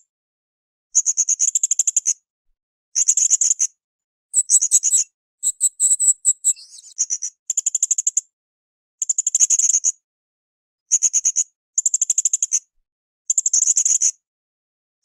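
Blue-crowned hanging parrot (srindit) calling: high, rapidly pulsed trilling phrases about a second long, repeated every second or two, with a longer, more tonal phrase about halfway through.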